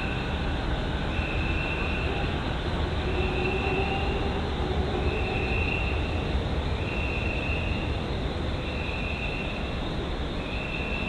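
Chūō-Sōbu Line local train approaching the station, a steady rumble of wheels and running gear. A high beep, about a second long, repeats roughly every two seconds over it.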